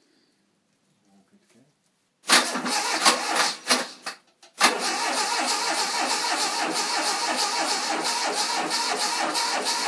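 Freshly rebuilt Fiat 126 650cc air-cooled twin-cylinder engine starting for the first time: it fires and sputters about two seconds in, dies briefly, then catches and runs steadily. The Workmate bench it is bolted to rattles along with it.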